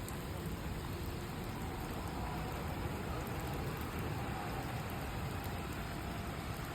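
Steady rain falling, an even hiss of drops on the ground and surfaces. A faint steady hum joins about a third of the way in.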